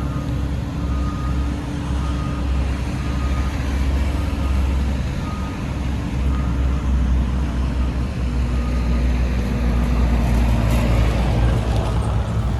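Diesel engine of heavy road-construction machinery running steadily, with a reversing alarm beeping repeatedly over it.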